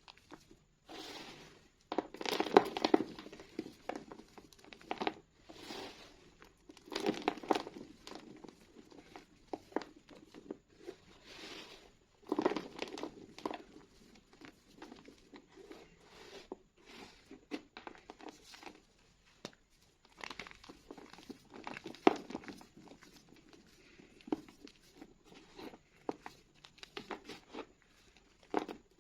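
Reformed school chalk being crushed and crumbled by hand: irregular bursts of dry crunching and crumbling, with a sharp snap about three quarters of the way through.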